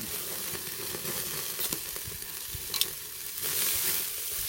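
Pork neck sizzling on a charcoal brazier, fat dripping onto the hot coals with a steady hiss and a few sharp crackles; the hiss swells louder about three and a half seconds in. The meat is fatty, and the fat falling on the coals is what feeds the sizzle.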